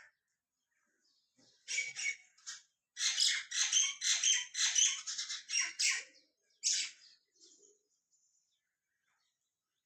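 Small birds chirping in quick, overlapping calls. A short burst comes about two seconds in, then a rapid run of loud chirps for about three seconds, and one last chirp about a second later.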